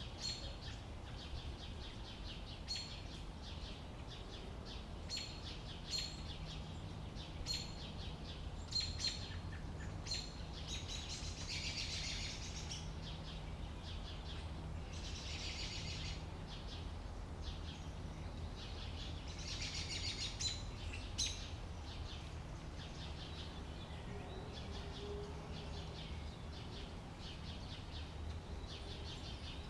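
Birds chirping: short high chirps repeating every second or two, with three longer buzzy trills in the middle. A steady low rumble runs underneath.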